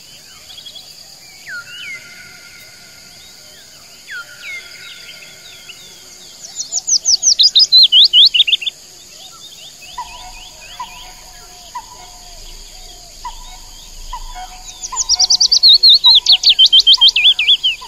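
Birdsong from several birds: two loud bursts of rapid, falling trilled notes about six and fifteen seconds in, long whistled notes in the first few seconds, and a short note repeated every half second or so in the second half, over a steady high buzz.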